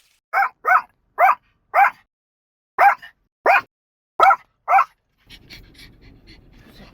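A puppy barking: eight short, high yips in loose pairs, followed by a softer noisy stretch for the last second and a half.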